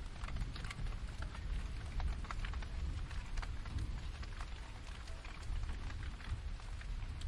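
Steady rainfall with many irregular raindrop ticks and drips, over a constant low rumble.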